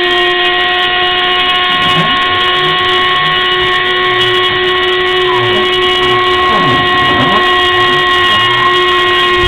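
Homemade CNC machine running: a steady high-pitched whine, with shorter low tones that shift and sweep underneath as the machine moves.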